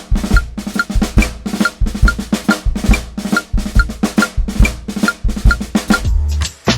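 Drum kit played in a steady pattern, bass drum and snare strokes falling about twice a second. Near the end the drumming gives way to sustained pitched tones.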